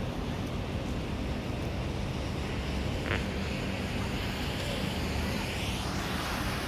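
Storm wind buffeting the microphone with a steady rushing noise; a brighter hiss swells in the middle, and there is a single sharp click about three seconds in.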